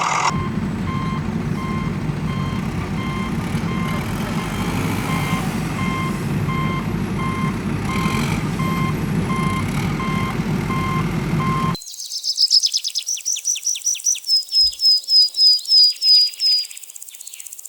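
A vehicle reversing alarm beeps about twice a second over a steady low engine rumble. About twelve seconds in, this cuts off abruptly and is replaced by a run of rapid, high-pitched chirps.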